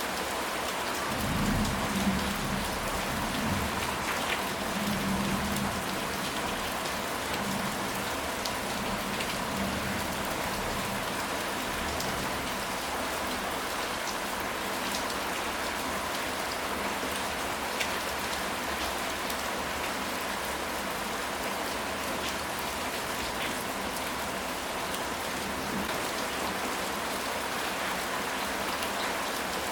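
Steady rain falling on a surface, an even hiss with scattered drop ticks. Low, distant thunder rumbles a couple of times in the first few seconds.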